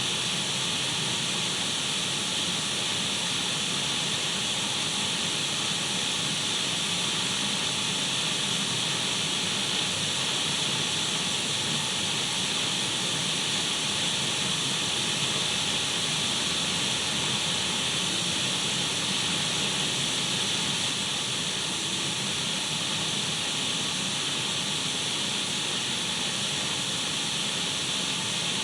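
Steady radio static: an even hiss of an untuned radio, strongest in the upper middle, with no change in level.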